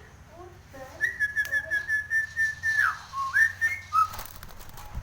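Nias hill myna giving a long, clear held whistle with a slight warble, then a whistle that dips and rises again, and a short note near the end.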